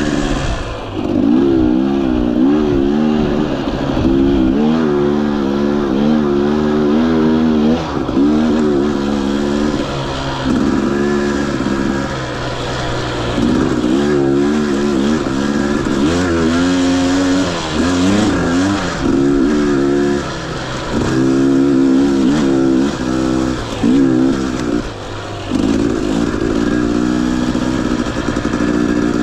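Husqvarna TE 250i two-stroke dirt bike engine under riding, revving up and down with constant throttle changes so the pitch rises and falls every second or so, with a few brief drops in level.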